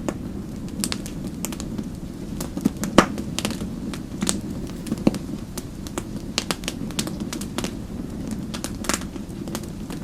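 Wood fire crackling in a fireplace: irregular sharp pops over a steady low rumble of the burning, with the loudest pop about three seconds in.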